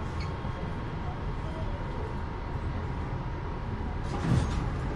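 Los Angeles Metro Rail train car: a steady low rumble with a faint steady whine, and a single louder knock about four seconds in.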